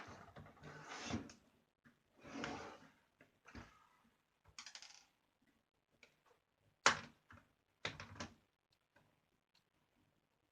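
Screwdriver work and handling of a laptop's plastic case: soft scraping and rubbing at first, then a few sharp clicks and knocks, the loudest about seven seconds in.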